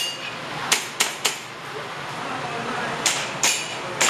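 Airsoft pistol firing during a practical shooting stage: sharp cracks in quick pairs, about six shots with short pauses between the groups.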